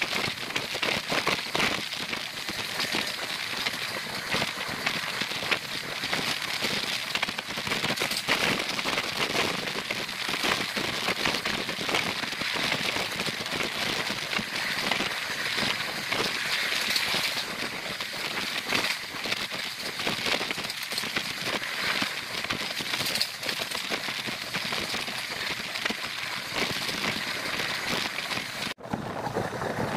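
Moving passenger train heard from an open coach window: a steady hiss of rushing air and running noise with many small crackles. It breaks off abruptly near the end, and a lower rumble follows.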